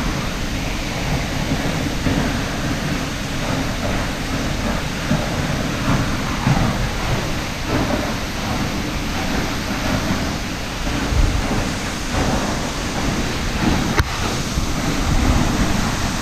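Wind buffeting the microphone in an unsteady low rumble, over a steady rushing hiss of open air. A single sharp click comes near the end.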